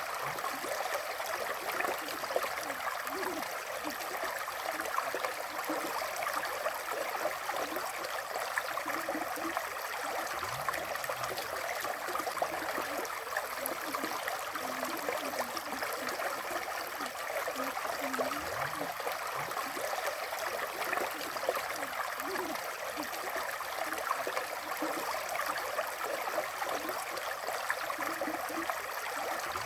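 River water flowing: a steady, even rush, with small bubbling blips scattered through it.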